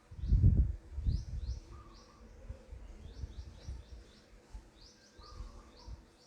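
Small birds chirping in quick clusters of short, falling high notes, with a lower note now and then. Under them runs an irregular low rumble, loudest in the first second.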